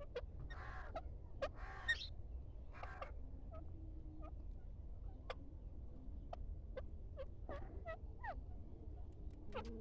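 Birds calling: scattered short chirps and quick falling whistles throughout, with a few harsher, raspier calls in the first few seconds, over a low steady hum.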